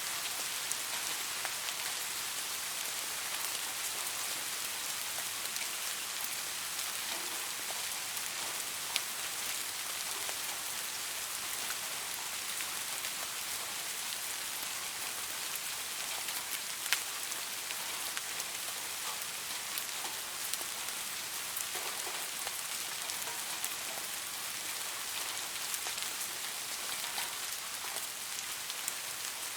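Steady light rain falling, an even hiss with scattered individual drops ticking, one or two a little sharper than the rest.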